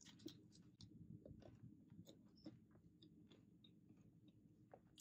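Faint close-up chewing of a mouthful of soft paneer tikka beetroot wrap: small irregular wet clicks and smacks, a few each second.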